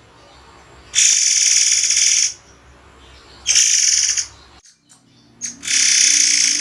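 Murai air bird singing in sharp bursts with pauses between: three harsh, high, rapidly pulsing phrases, each about a second long, the last starting about five and a half seconds in.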